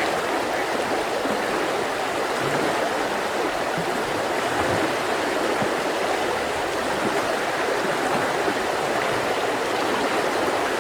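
Mountain river flowing in a steady, even rush of water.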